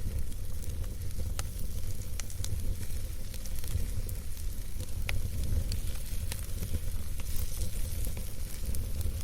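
Wood campfire burning: a steady low rumble and hiss of the flames with irregular sharp crackles and pops from the burning wood.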